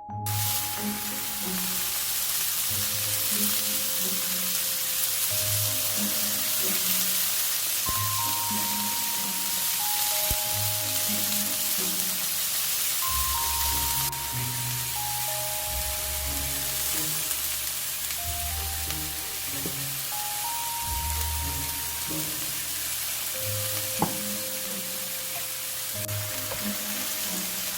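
Food sizzling steadily as it fries in a pan, over background music with a light stepping melody. Well into the sizzling there is a single sharp tap.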